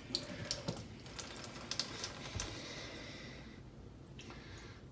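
Water running from a tap into a sink, with small clicks and knocks of handling over the first couple of seconds; the running water dies away about three and a half seconds in.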